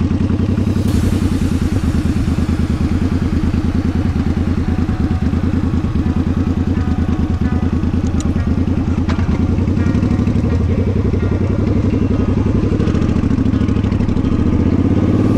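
Vehicle engine running steadily with a fast, even low pulsing; the pitch rises slightly near the end.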